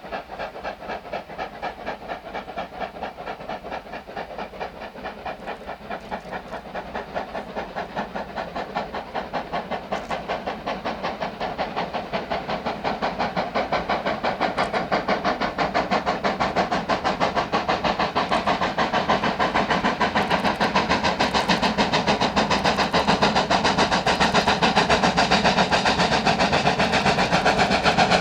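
Two steam locomotives double-heading a train, working hard with a quick, even chuffing of exhaust beats that grows steadily louder as the train approaches.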